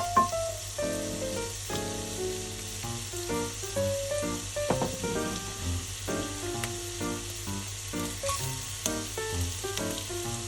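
Fried rice sizzling in a frying pan, a steady hiss, under background music of short melodic notes.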